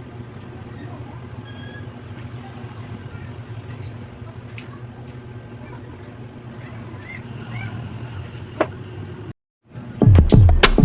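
Steady low background hum with a few faint clicks and ticks. It then cuts out completely for a moment, and loud electronic music with a heavy, fast beat starts near the end.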